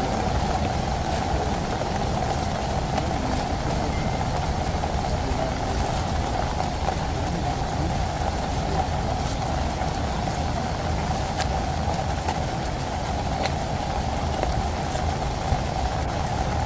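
Steady rain falling on forest foliage, an even hiss with a low rumble beneath and a few faint drip-like ticks.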